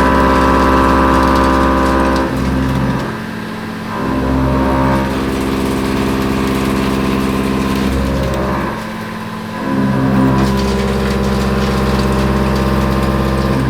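A 2.5-inch indexable face mill with four round inserts, cutting cold rolled steel in a CNC mill. It gives a loud, steady pitched cutting tone with overtones while it is in the cut. The tone falls away twice, about two seconds in and again about nine seconds in, as the cutter moves between passes.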